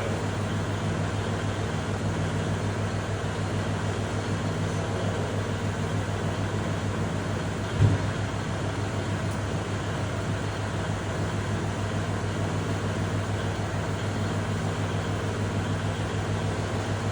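Kubota tractor's diesel engine running steadily at a constant speed, with a single knock about eight seconds in.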